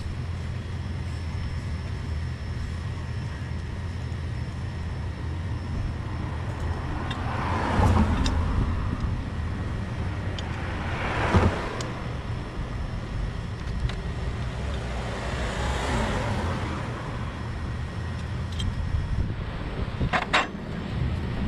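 Steady low rumble with vehicles passing on a road, three passes that swell and fade, and a few sharp clicks near the end.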